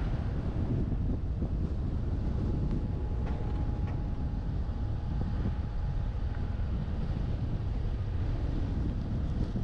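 Wind buffeting the microphone of a roof-mounted GoPro on a moving truck, a steady low rumble mixed with the truck's road noise.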